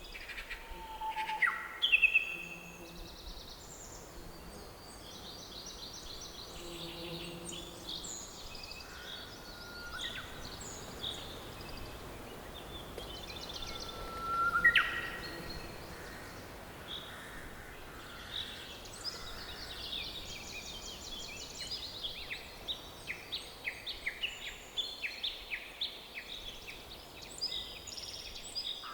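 Several forest birds singing and calling over a faint steady background hiss, with chirps, whistles and quick trills from different birds. Two louder whistled calls stand out, one about two seconds in and one near the middle, and a run of quick repeated chirps fills the last few seconds.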